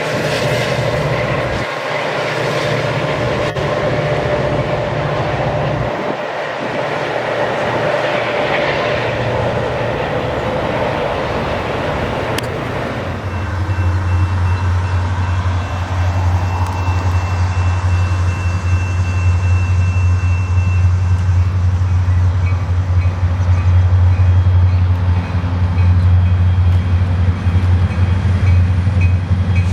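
A train passing on the rails. About 13 seconds in, the sound changes abruptly to a strong, steady low drone.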